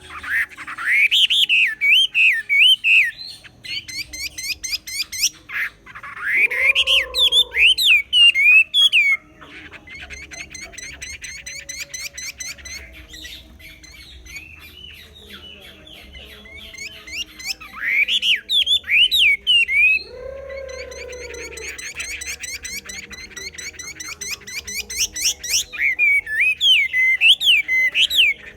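Chinese hwamei (Garrulax canorus) singing: loud phrases of fast rising and falling whistled notes that come in bursts every several seconds, with quieter rapid chattering notes between them. A lower swooping note opens two of the loud phrases.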